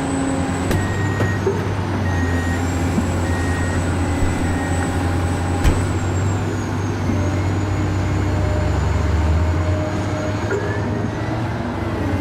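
Truck engine sound running steadily with a low hum and a thin high whine, with a few short beeps in the first few seconds and a sharp click about six seconds in.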